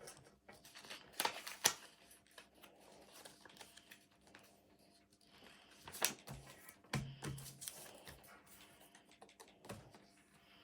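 A sheet of paper being folded and creased by hand on a paper airplane: scattered soft rustles and crisp little clicks, with a few sharper ones about a second in and around six to seven seconds in.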